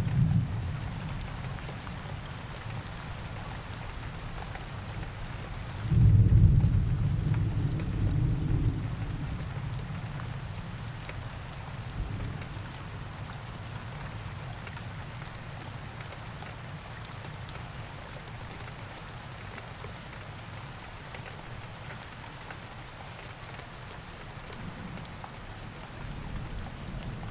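Rain ambience: steady rain falling, with a low rumble of thunder about six seconds in that rolls away over the next few seconds.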